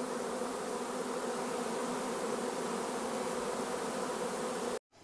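A large swarm of honey bees in flight, many bees buzzing together in a steady, dense hum. It cuts off suddenly near the end.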